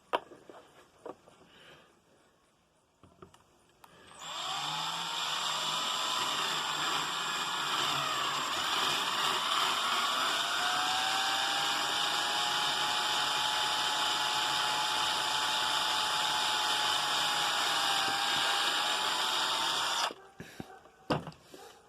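Electric drill boring slowly through a plastic wheel: it starts about four seconds in, its whine wavers for a few seconds and then holds a steady pitch, and it stops abruptly near the end.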